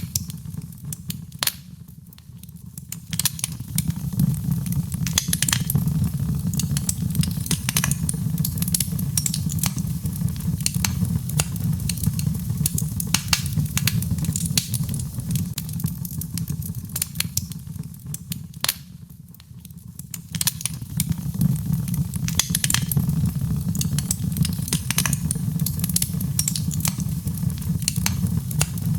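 Birchwood fire burning in a fireplace: frequent sharp crackles and pops over a steady low rumble of the flames. The crackling thins out briefly twice, about two seconds in and again near the middle.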